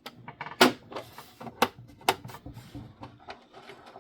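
Hard plastic clicking and tapping as the parts of a toy Batmobile are handled and fitted. The clicks are irregular, with the loudest knocks about half a second, a second and a half and two seconds in.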